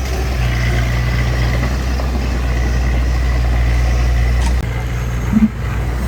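Heavy diesel engine of earthmoving machinery running steadily with a low drone, which drops in level about four and a half seconds in.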